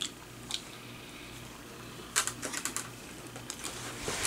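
Close-up chewing of a pistachio macaron: scattered crisp crackling clicks from the shell, with a quick run of them about two seconds in.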